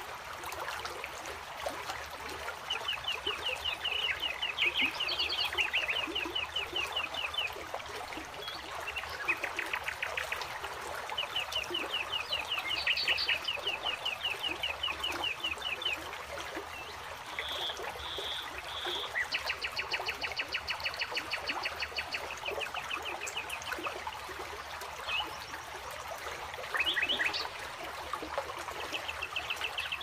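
Birds giving several long runs of fast repeated chattering notes over the steady rush of a small rocky stream.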